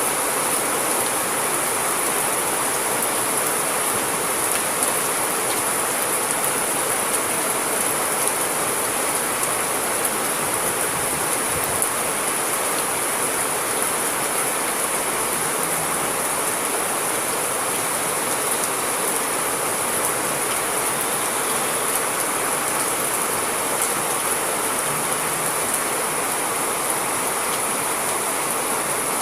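Steady, unbroken rain, a dense hiss of many drops with fine pattering throughout.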